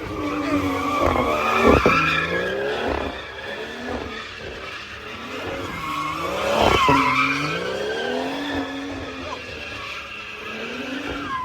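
A car spinning in a tight circle, its engine revving up and down over and over while the rear tyres screech. It is loudest twice, about two seconds in and again near seven seconds, and cuts off suddenly at the end.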